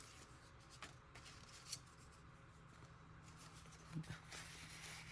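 Near silence with faint paper handling: a few light ticks and rustles of paper pieces being picked up and moved.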